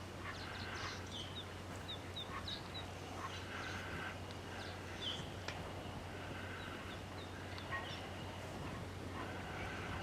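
Several birds chirping and calling, with short high chirps scattered throughout, over a steady low hum.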